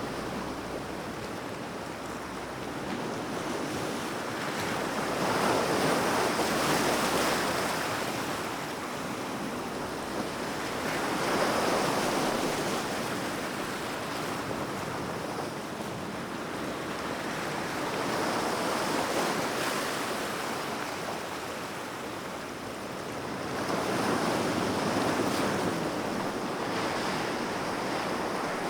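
Ocean waves breaking and washing ashore in a steady wash of surf, swelling louder about every six seconds, with four larger waves in all.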